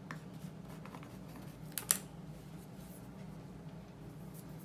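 Paintbrush scratching and dabbing oil paint onto paper in a few short strokes, with one sharp tap a little under two seconds in, over a low steady hum.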